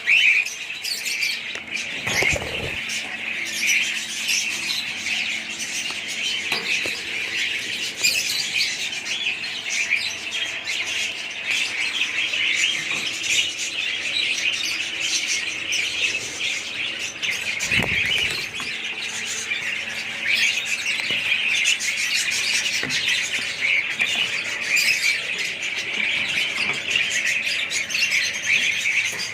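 A colony of budgerigars chattering and chirping together in a dense, continuous warble, with a faint steady hum underneath and two brief low thumps.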